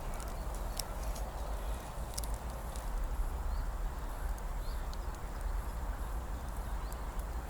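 Campfire burning down, its embers giving sparse sharp crackles and pops over a steady low rumble, with a few faint short chirps.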